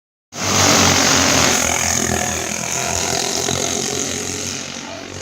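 Several go-kart engines running together, loudest just under a second in and then fading steadily.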